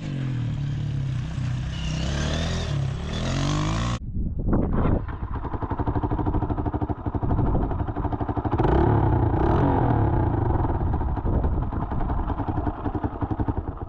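Dirt bike engine running and being revved through an exhaust pipe cracked right by the engine block; the rider takes the crack for the cause of its changed sound and backfiring. The sound cuts off abruptly about four seconds in and resumes as a second stretch of the engine running loud with a rapid stuttering pulse.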